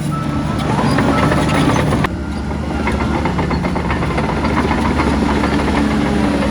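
Heavy diesel earth-moving machinery running: a steady engine drone with a dense rattle over it, dipping briefly and abruptly about two seconds in.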